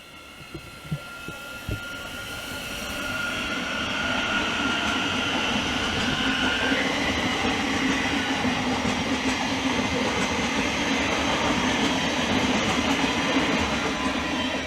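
A train running past on the main line: a few knocks near the start, then the noise of the train builds over the first few seconds and stays loud and steady, with wheel-on-rail clatter.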